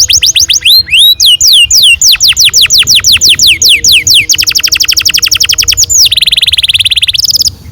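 Domestic canary singing a long rolling song: rapid notes that each fall in pitch, speeding into a faster trill about four seconds in, then a very fast buzzing roll near the end before the song stops.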